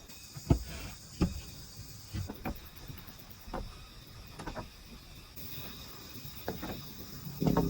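Scattered light knocks and clicks, about seven over several seconds, over a steady high insect drone.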